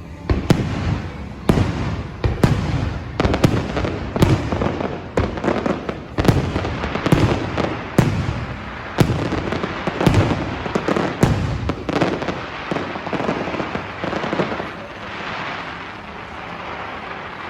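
Fireworks display: aerial shells bursting in a fast run of sharp bangs, about one or two a second, giving way about two-thirds of the way through to a stretch of crackling that fades.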